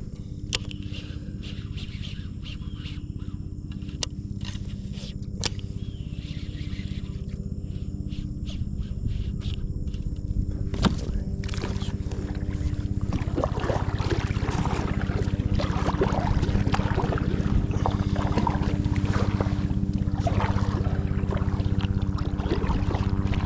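Water sloshing and rushing around an inflatable kayak, setting in about halfway, over a steady low hum, with sharp clicks in the first third.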